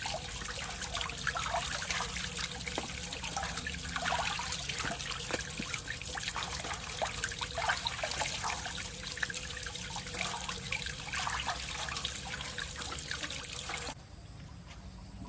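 Water trickling and splashing, with many small irregular splashes, then cutting off abruptly near the end.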